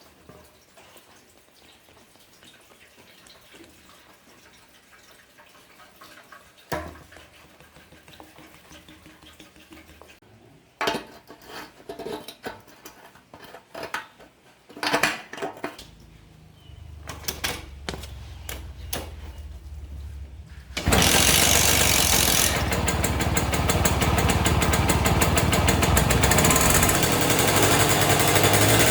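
Scattered knocks and clicks, then a low hum, and about two-thirds of the way through a small engine starts up and keeps running loudly with a fast, even pulse.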